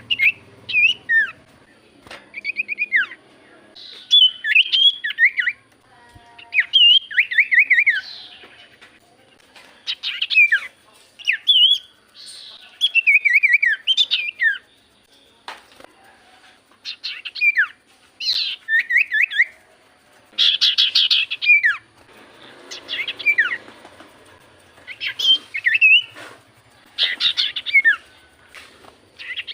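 Common iora (cipoh) singing in a rapid run of short whistled phrases, mostly quick falling notes, repeated in bursts every second or two.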